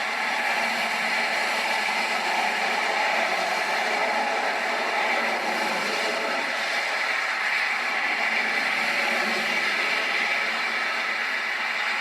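Steady, even roar of an Airbus A340's jet engines, an unbroken rushing noise with no change in pitch.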